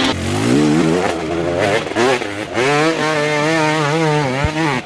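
Dirt bike engine revving, its pitch rising and falling with the throttle, then held at a steady high rev through the last couple of seconds.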